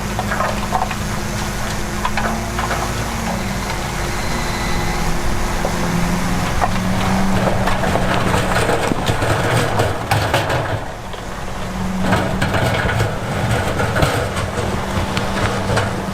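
Heavy diesel earthmoving machinery running under load, its engine note rising and falling, dipping briefly about eleven seconds in and then picking up again. Scattered crunching and rattling of stones runs over it.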